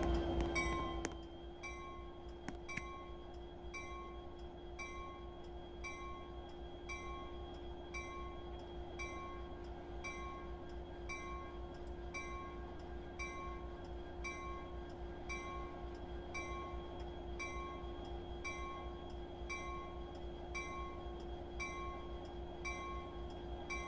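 A railway bell ringing faintly and evenly, about once a second, over a steady hum. A louder sound dies away in the first second or so.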